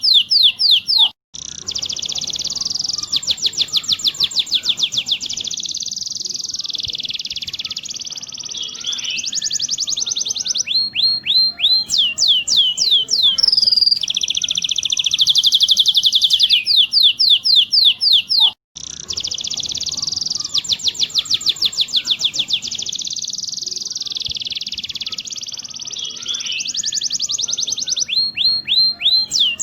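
Domestic canary singing: long, fast rolling trills and chattering phrases with quick rising sweeps, the rolled song used to train other canaries. The recording breaks off briefly about a second in and again about halfway, then the same song starts over.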